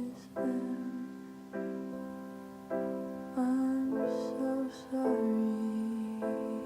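Piano playing slow sustained chords, a new chord struck about every second and left to ring and fade.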